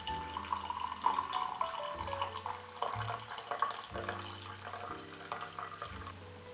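Water running and splashing, with background music of sustained notes and a low bass.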